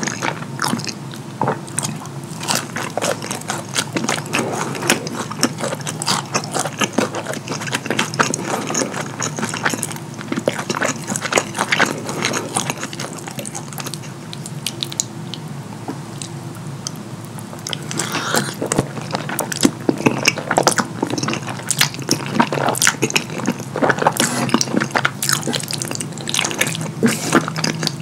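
Close-miked wet chewing and lip smacking of saucy rosé fettuccine and croissant pepperoni pizza, dense with quick moist clicks, easing off briefly about halfway through. The fork scrapes and clicks against the metal skillet as pasta is gathered.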